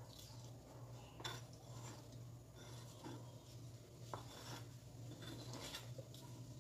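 A knife scraping diced cucumber off a plastic cutting board onto a plate, with faint scrapes and a few soft clicks as the pieces drop. A steady low hum runs underneath.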